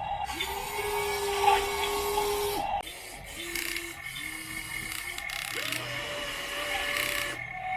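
Small electric motors of a radio-controlled excavator whining in separate bursts as its movements are worked: one whine of about two and a half seconds, then several shorter ones at different pitches, each sliding up in pitch as it starts.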